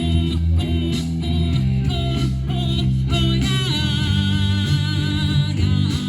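Live rock band music: electric guitar and bass playing sustained, sliding notes.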